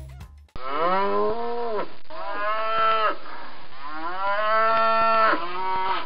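A cow mooing several times in long, drawn-out calls with short breaks between them, the last one trailing off softer.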